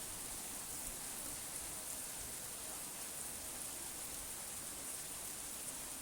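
Steady rain falling: an even hiss with faint scattered drop ticks, without thunder.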